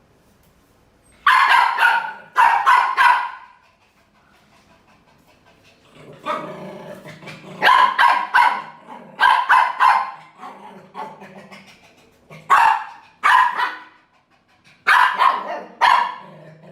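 A dog barking at a cobra, in several rounds of sharp, loud barks with short pauses between them.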